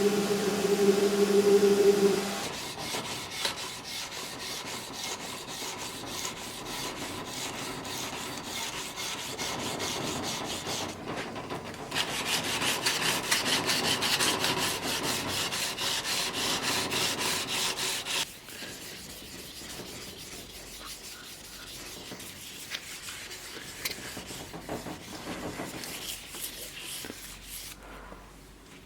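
Rapid, even rubbing strokes of an abrasive on the steel blade of a large Bowie sword, louder for a stretch in the middle and then lighter. A steady machine hum cuts off about two seconds in.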